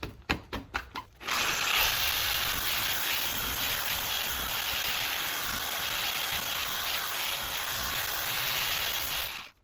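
Dual action polisher running steadily on a headlight lens with cutting polish, starting about a second in after a few sharp taps and cutting off suddenly near the end.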